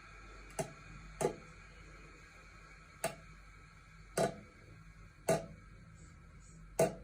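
Six sharp taps or clicks at uneven intervals over a faint steady hum.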